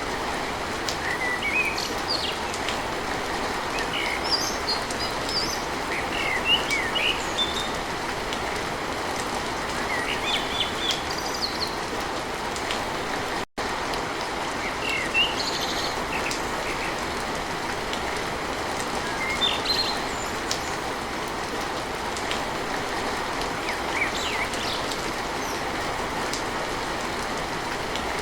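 Steady rain drumming on a tin roof, with birds chirping now and then over it. The sound drops out for an instant about halfway through.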